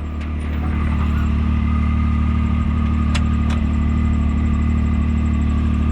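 Can-Am Maverick X3 side-by-side engine running steadily with a thin, steady whine above the engine note, and two faint clicks about three seconds in.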